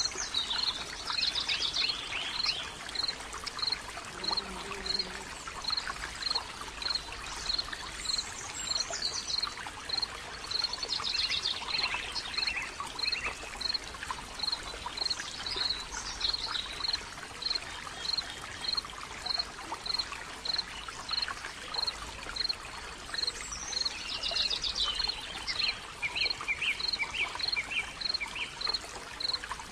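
Wild birds calling: a short high note repeated at an even pace, a little more than once a second, with scattered trills and chirps, over a steady rushing hiss.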